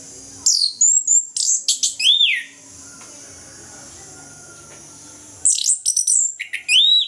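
Orange-headed thrush singing: two phrases of quick, clear whistled notes with rising and falling slurs, each about two seconds long and a few seconds apart, over a faint steady high hiss.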